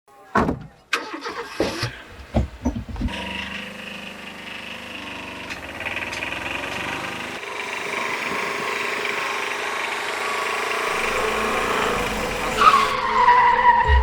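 Truck engine starting: a few knocks and clicks, then the engine catches and runs, slowly growing louder as the truck gets going. Near the end a loud, slightly falling tone sounds over it.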